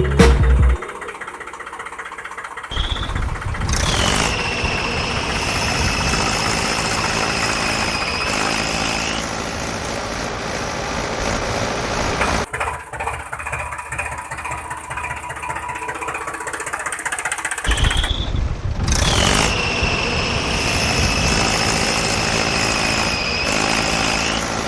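Mini tractor running in two spells, a bit under three seconds in and again near eighteen seconds in, each time with a high whine that dips at the start and then holds steady.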